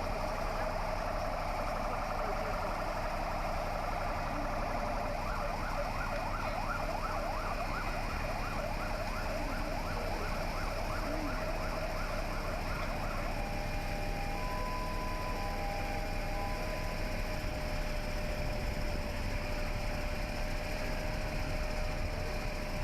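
An electronic alarm warbling rapidly, then switching to a steady tone with short on-off beeps over it, all above a steady low rumble.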